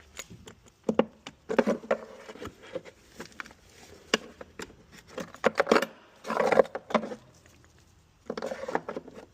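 Irregular knocks, clicks and scrapes as a battery hold-down bracket is handled and fitted over its studs, with a few short rattling stretches.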